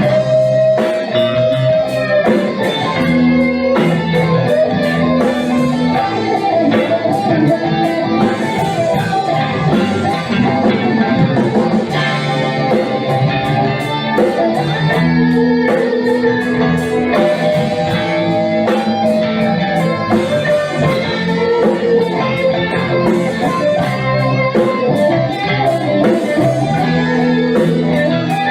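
A rock band playing an instrumental passage with no singing: guitars over bass and a steady drum beat.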